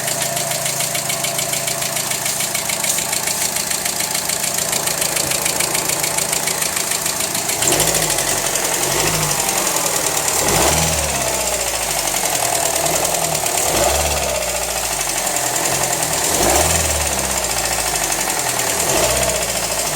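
Car engine idling with a fast, even ticking knock, then revved in a series of throttle blips from about eight seconds in. It is an unidentified knocking noise whose source the owner cannot locate.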